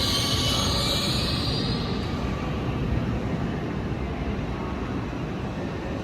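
A train running on the rails, its wheels squealing high until about two seconds in, then a steady low rumble of the train on the move.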